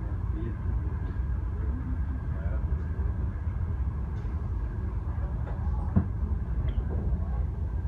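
Running noise heard from inside a moving regional passenger train carriage: a steady low rumble of the wheels and running gear on the track, with a single sharp knock about six seconds in.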